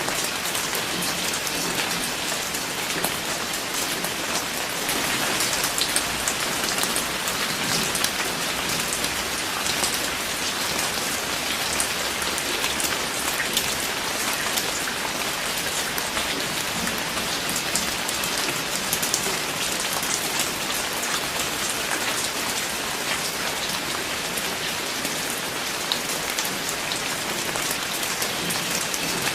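Steady rain falling, with many separate drops pattering on a surface and no let-up.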